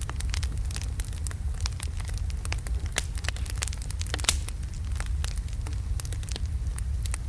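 Wood logs burning in a fireplace: a steady low rumble of the flames with frequent irregular crackles and small pops, one sharper pop about four seconds in.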